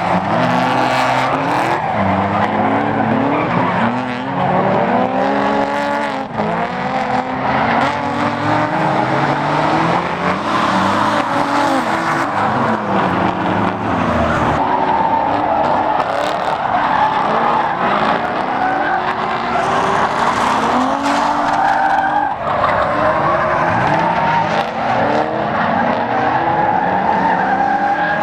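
Drift cars running hard, their engines revving up and down over and over, while tyres squeal and skid in long sustained slides.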